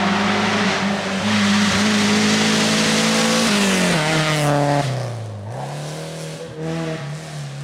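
Car engine held at steady high revs with a rushing hiss, then falling in pitch as the throttle closes about three and a half seconds in, settling to a lower, quieter note with small blips of throttle.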